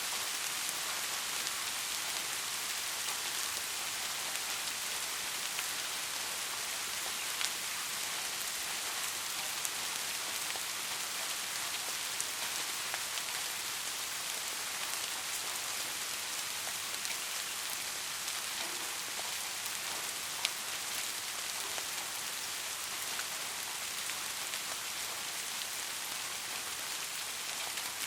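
Steady rain falling, an even hiss with a few sharper individual drop hits scattered through it.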